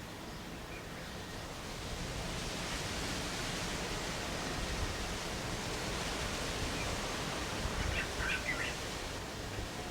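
Steady hiss of wind, swelling about two seconds in, with low rumbles of gusts on the microphone. A bird gives a quick cluster of short chirps about eight seconds in.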